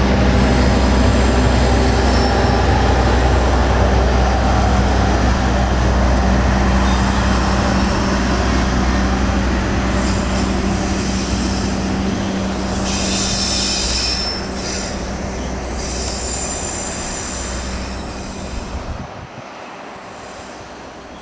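Passenger train rolling past with a continuous rumble and a steady low hum. Its wheels squeal in short spells through the second half. The sound fades away as the last coach goes by, near the end.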